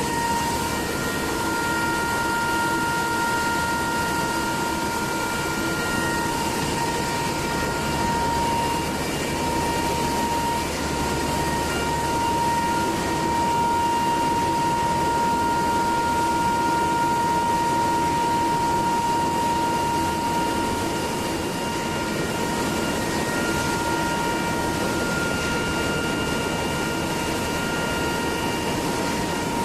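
Machinery running steadily: a constant noisy hum with a high whine near 1 kHz and several higher steady tones above it.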